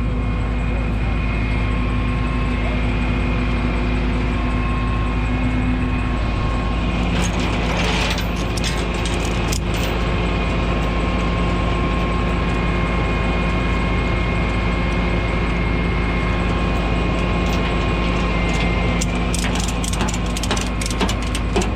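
Tow truck engine running steadily, its pitch dropping slightly about six seconds in, with bursts of mechanical clicking and rattling around eight seconds and again near the end.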